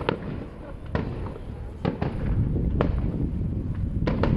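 Fireworks display: aerial shells bursting in about seven sharp bangs at uneven intervals, over a continuous low rumble.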